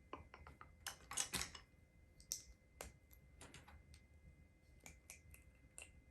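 Small plastic LEGO pieces clicking and clattering as they are handled and pressed together. There is a scatter of light, irregular clicks, with a louder cluster about a second in.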